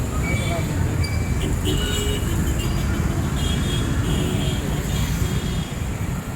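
City street traffic: a steady low rumble of vehicles passing, with a few short high-pitched tones over it.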